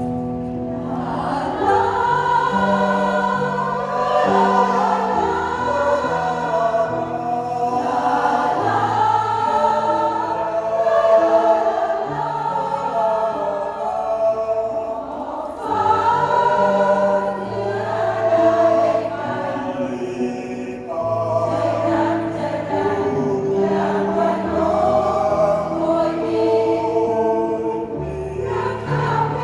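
Mixed choir singing in several parts over a piano accompaniment, with phrases held and breaking for breath every few seconds.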